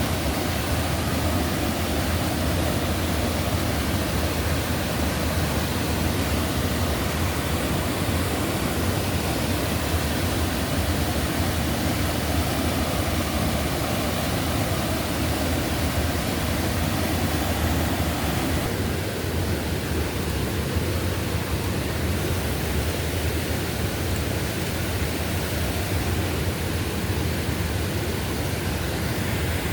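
Rushing water of a forest stream running high and fast after heavy rain, a loud steady roar; its tone changes slightly about nineteen seconds in.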